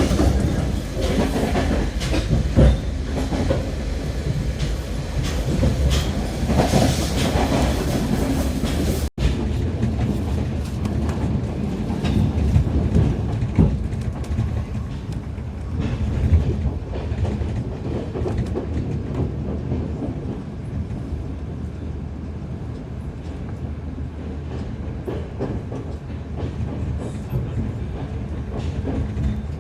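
A Chinese-built diesel multiple-unit express train running at speed, heard from on board: a steady rumble with wheels clattering over the rail joints. The sound cuts out for an instant about nine seconds in and is a little quieter afterwards.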